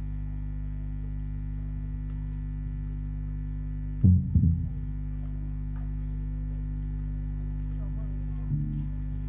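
Steady electrical mains hum from the church's public-address system, whose microphone is faulty, with a short low bump about four seconds in.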